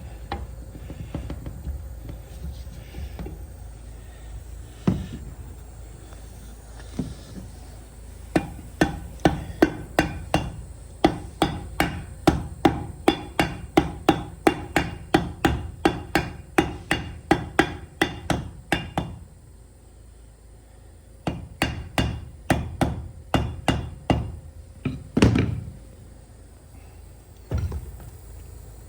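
Hammer striking metal in a steady run of blows, a little under three a second, each with a short metallic ring, working on a steering column. It stops for a couple of seconds, then a second, shorter run of blows follows, ending in one heavier strike.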